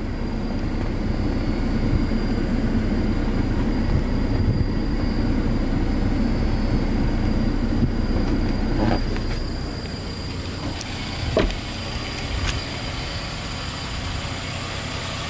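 A 2006 Toyota Rush 1.5's four-cylinder engine idling. It is heard first from inside the cabin under a steady rush of noise, then more quietly from outside, where its steady hum stands out. There is a single short knock about eleven seconds in.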